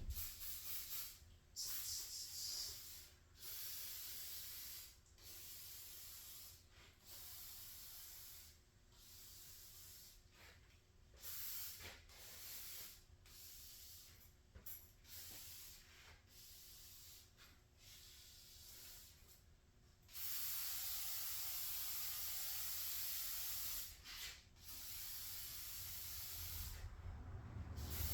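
Faint hissing in a series of short bursts, with one longer hiss lasting about four seconds about two-thirds of the way through.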